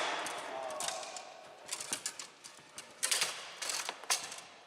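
Bonzini foosball table in play: a loud knock at the start with a brief ringing after it, then scattered sharp clacks of the ball and handles, in clusters around two seconds in and again after three seconds.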